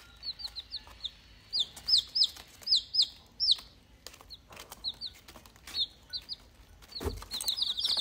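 Rose-ringed parakeet giving short, high calls in quick runs of two to four, over and over, with a few sharp clicks between them and a low thump about seven seconds in.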